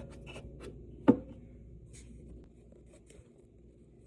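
Light handling clicks and rubbing as the welder's wire feed and welding wire are worked by hand, with one sharp click about a second in.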